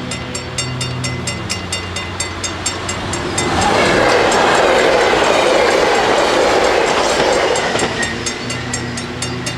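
Dutch automatic level-crossing bells ringing in a fast, even beat, about four strokes a second. A train passes over the crossing a few seconds in, its loud rushing noise drowning the bells for about four seconds before it fades and the bells are heard again.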